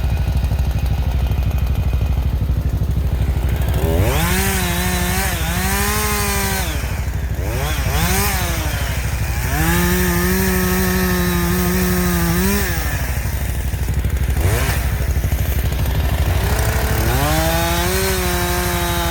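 Two-stroke chainsaw idling low and revving up to full throttle four times, the longest burst about three seconds. The pitch climbs and then holds, dipping briefly at times, as the saw cuts through blowdown timber.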